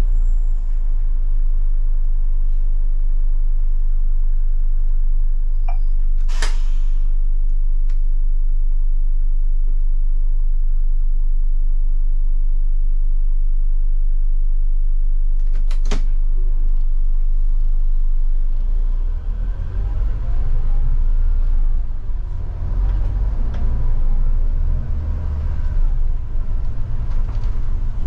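Scania K250IB bus's diesel engine idling steadily, with a short hiss about six seconds in and a sharp double click around sixteen seconds. From about eighteen seconds the engine runs louder and less evenly as the bus pulls away, its pitch rising and falling.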